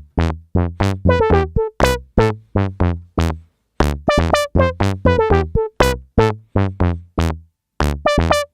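Dave Smith Instruments Tempest analog drum machine playing a pattern of short plucky synth notes, low bass notes under higher melody notes, about four a second. Some notes are bright and others duller at much the same level, because the velocity-controlled filter opens wider on harder pad hits.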